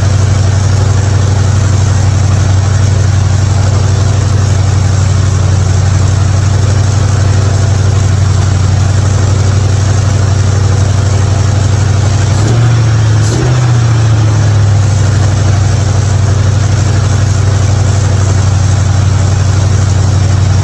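Hot rod engine idling steadily, with a brief uneven rise in the note and two clicks a little past halfway. It is idling well, no longer popping, after a carburetor adjustment.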